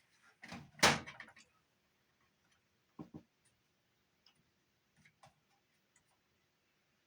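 Handling clatter from a Sony TC-50 cassette recorder: one loud clack about a second in, then a few lighter clicks near three and five seconds, as its buttons and lid are worked while testing a recorder that does not run.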